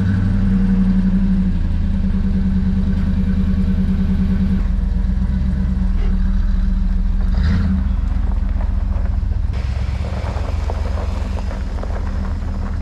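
OBS Chevy pickup truck's engine running steadily, just after being started.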